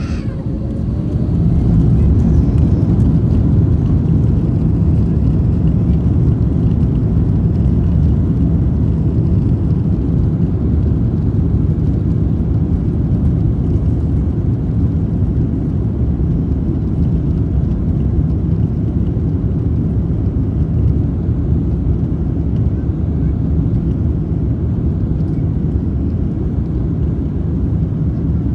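Cabin noise of an Airbus A350-1000 with its Rolls-Royce Trent XWB engines at takeoff power: a loud, steady low rumble that swells about a second in and then holds.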